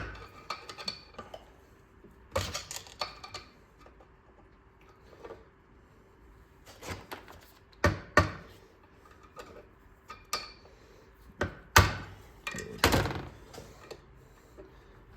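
Scattered metallic clinks and knocks of hand tools against engine parts during a small-engine teardown. They come irregularly, with a few sharper knocks about 8 seconds in and again around 12 and 13 seconds.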